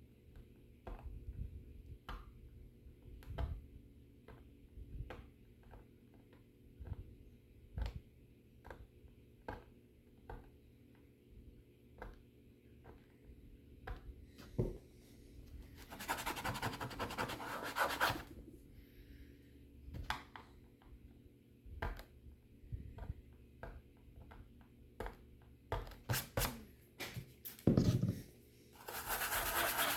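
Hand scrubbing and scraping at a sticky, glue-like residue on a laptop: irregular short scratches and taps, with a few seconds of quick steady rubbing about halfway through and again near the end.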